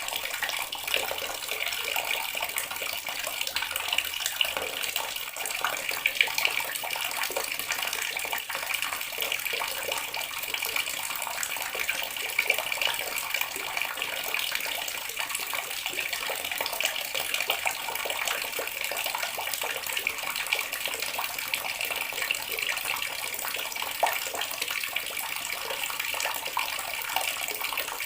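Water running steadily from a tap and splashing, with small irregular splashes throughout.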